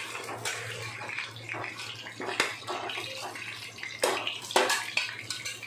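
Chicken seekh kababs sizzling as they shallow-fry in hot oil in a black pan, a steady hiss, with a metal spatula scraping and knocking against the pan several times as the kababs are turned, loudest about four seconds in.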